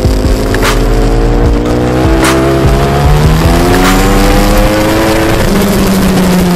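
Race motorcycle's V4 engine heard onboard, its note rising steadily under acceleration for about five seconds, then dropping.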